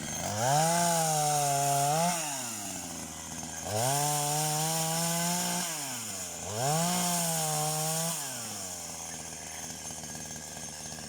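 Chainsaw revved up three times, each time held at high speed for a second or two and then dropped back to idle, while cutting off the lower branches of a tree.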